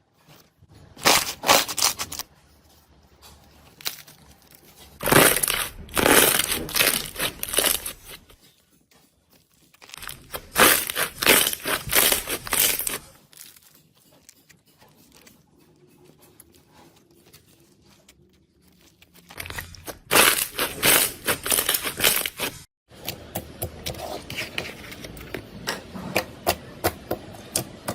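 Slime being squished and pressed, giving crackling, crinkling sounds in four bursts of a few seconds each. Near the end comes a quick run of small pops and clicks.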